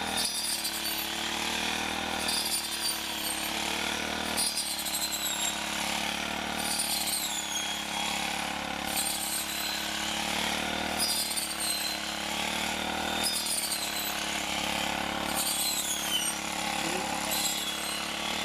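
A farm machine running steadily, with a high squeak that falls in pitch and repeats about every two seconds as the machine cycles.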